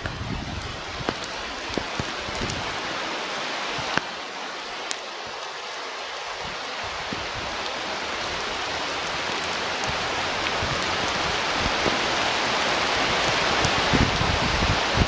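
Wind rushing over an outdoor microphone: a steady hiss that slowly grows louder, with low buffeting rumbles near the start and end. Two sharp clicks come about four and five seconds in.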